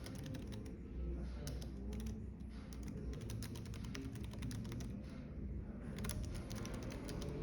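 Computer keyboard typing in quick bursts of key clicks with short pauses between them, over a steady low rumble of cafe ambience.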